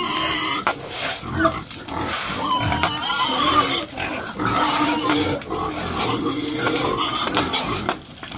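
Several pigs squealing and grunting over each other, with a few sharp knocks among the calls.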